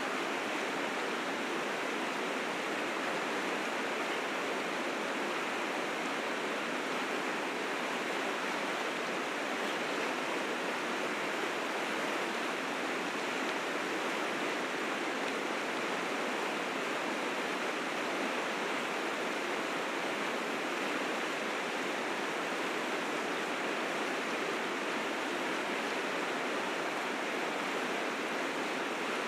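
River rapids swollen with spring snowmelt, rushing and churning in a steady, unbroken roar of white water.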